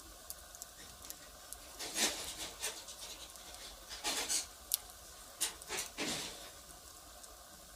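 Firewood burning: scattered sharp crackles and pops, with a few louder bursts of crackling about two, four and six seconds in.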